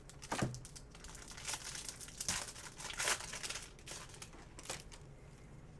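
Crinkling and tearing of a trading-card pack wrapper being ripped open, in a series of short rasps, the loudest about half a second in and around two and three seconds in.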